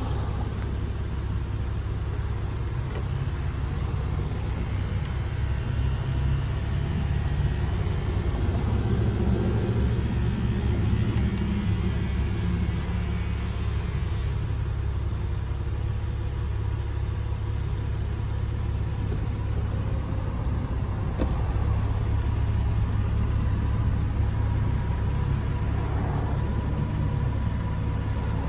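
Porsche Boxster 986's flat-six engine idling steadily with a low rumble. For several seconds in the first half, the power soft top's mechanism whirs as the roof closes.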